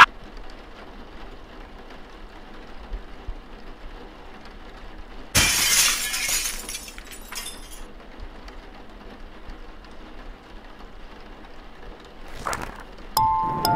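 A sudden crash of shattering glass about five seconds in, dying away over a couple of seconds, over a faint hiss. Near the end a tinkling chime melody begins.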